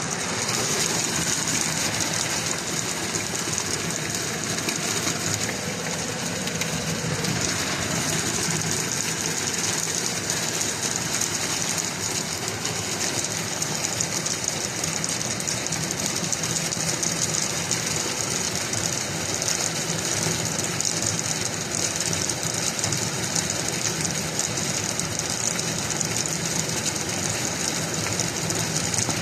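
Heavy hail pelting down, a dense, unbroken clatter of countless hailstones striking hard surfaces at a steady intensity.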